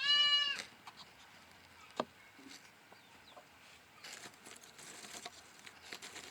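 A goat kid bleats once, a short high call of about half a second. A single faint knock follows about two seconds in, then light rustling.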